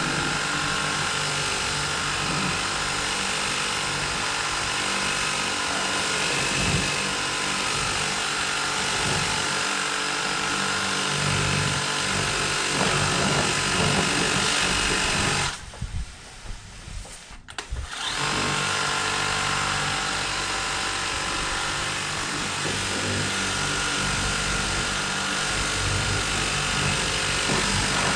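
Battery-powered Kobalt 600 psi electric pressure washer running steadily, its motor and pump humming under the hiss of the spray. It stops for about two seconds a little past halfway, as the trigger is let go, then starts again.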